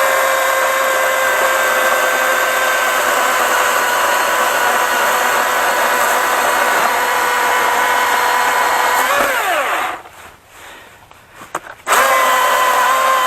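Milwaukee M18 FUEL cordless electric chainsaw's brushless motor and chain running, a loud, steady whine. About nine seconds in the trigger is released and the pitch falls as it spins down, then after about two seconds it starts up again at full speed.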